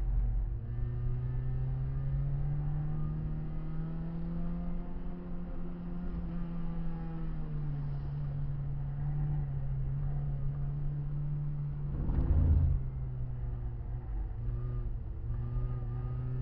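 Renault Clio 16V's four-cylinder engine heard from inside the cabin, pulling under load on track: the revs climb slowly, drop back, then hold steady. About twelve seconds in there is a brief loud thump.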